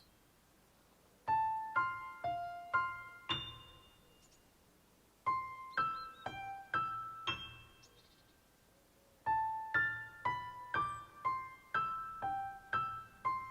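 Gentle background music: short phrases of single piano-like notes, about six notes to a phrase, each phrase followed by a pause of about a second.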